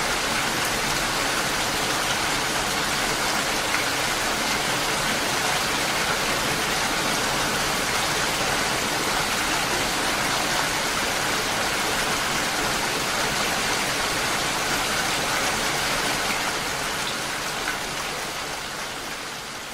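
Steady rain falling, a dense even hiss of drops with faint individual drop ticks, fading out gradually over the last few seconds.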